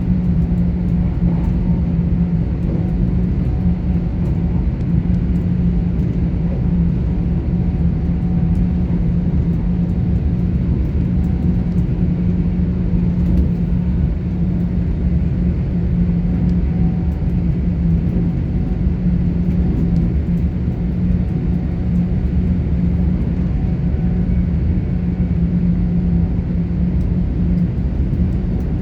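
Inside a Class 800 IET train running along the line: a steady rumble of the running gear with a constant low hum that does not change in pitch.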